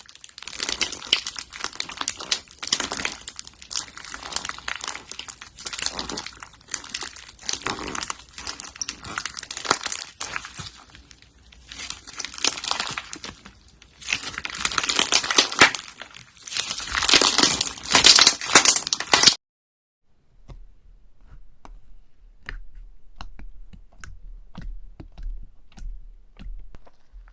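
Slime being squeezed and worked by hand, giving a dense run of crackling and crinkling pops. About two-thirds of the way through it cuts off suddenly and gives way to quieter, scattered clicks and pops over a faint low hum.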